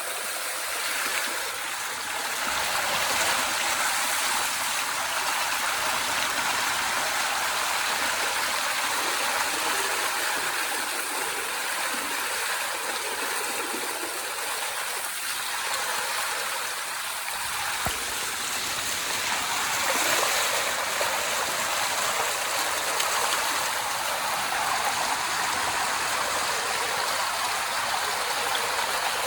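Steady rush of flowing water, as floodwater drains through a culvert.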